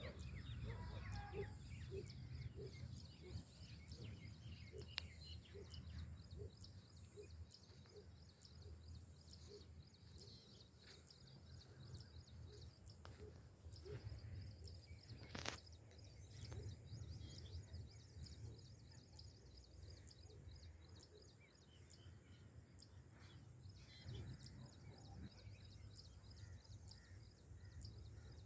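Faint small birds chirping and twittering over a low steady rumble, with a soft low note repeated a little over once a second through the first third and a single sharp click about halfway through.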